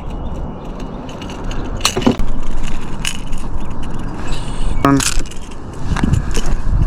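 Scattered sharp metallic clicks and a brief rattle, about four in all, from forceps and a walking bait's treble hooks being worked out of a hooked bass's mouth, over a steady low rumbling noise.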